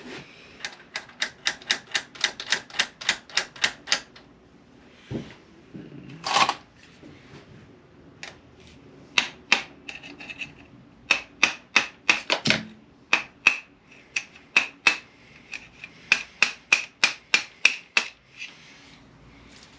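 Small hammer tapping on a stuck slide pin in an RC truck's motor mount to drive it out, in several runs of quick light strikes, about four a second, with pauses between runs.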